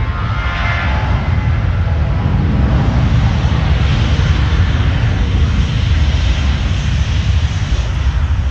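Jet airliner's engines heard loudly and steadily, with a thin high whine in the first second.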